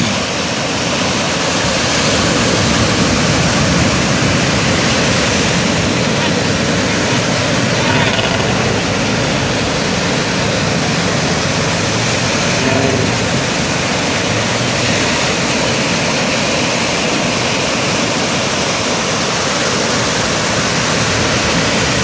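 Loud, steady rushing of sea surf breaking on the beach, with no clear engine tone or rhythm.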